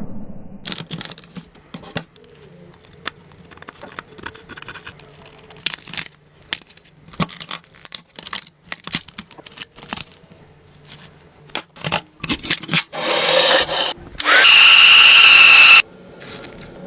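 Workshop tool noises: scattered sharp taps and clicks of hand work for most of the stretch. Near the end a power tool runs loudly and steadily with a high whine for about a second and a half, then stops suddenly.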